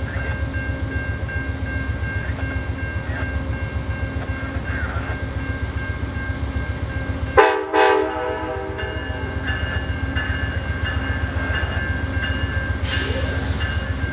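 Diesel train running with a steady low rumble and a fast pulsing beat. About seven seconds in, two short blasts of a train horn sound. Near the end there is a brief burst of hissing.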